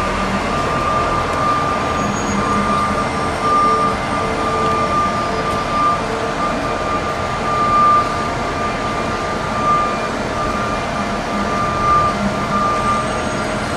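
Heavy construction machinery running steadily, with a high thin tone coming and going every second or so over a continuous mechanical noise.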